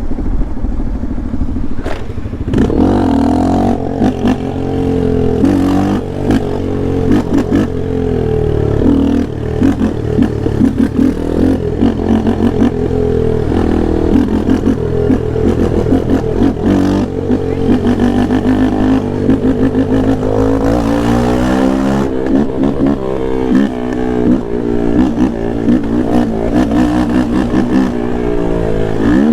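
Yamaha Lander 250's single-cylinder four-stroke engine ridden hard, revving up and dropping back again and again through the gears.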